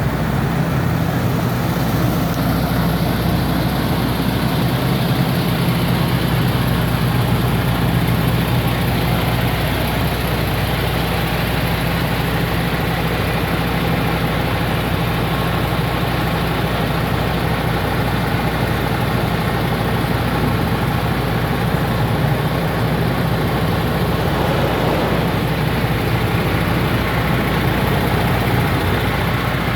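Diesel engine of an HGV lorry running steadily at an even, unchanging pitch.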